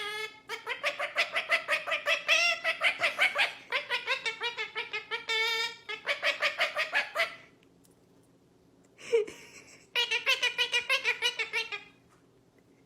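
A parrot chattering in fast runs of repeated pitched calls, about six a second. The runs come in two bursts with a quiet gap of about two seconds between them.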